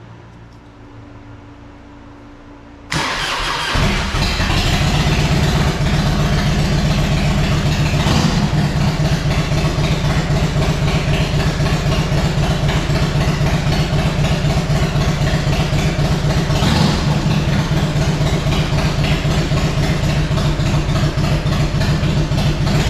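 1998 Harley-Davidson Fat Boy's Evolution V-twin cranked on the electric starter about three seconds in, catching within a second and settling into a pulsing idle. There are two brief blips of throttle, one about eight seconds in and one about seventeen seconds in. This is the first start after the fuel petcock was replaced.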